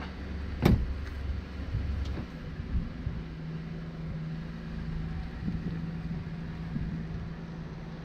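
A vehicle engine running with a low steady hum that shifts to a slightly higher steady pitch a couple of seconds in. A single sharp knock comes about a second in.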